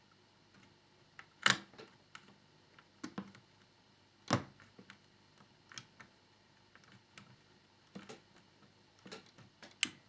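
Scattered sharp clicks and taps of a small screwdriver and plastic model parts being handled while screws are driven into a scale-model motorcycle's fairing, irregularly spaced, the loudest two about one and a half and four seconds in.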